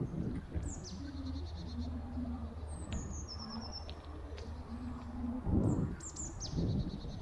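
Small songbirds chirping in woodland: several short high calls, each a quick downward sweep followed by a fast run of notes. Underneath is a steady low rumble, with heavier low thumps about five and a half and six and a half seconds in.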